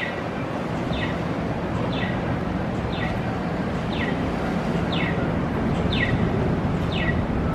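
Blizzard-force wind gusting hard, a steady roar that builds slightly as a big gust arrives. A short high chirp, falling in pitch, repeats about once a second over the wind.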